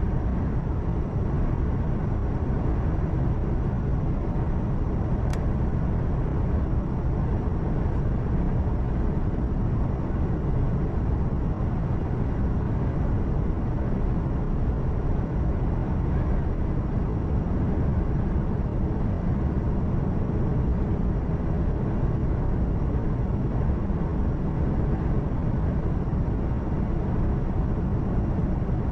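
Steady low rumble of a truck's engine and road noise heard from inside the cab while driving at speed, with one brief click about five seconds in.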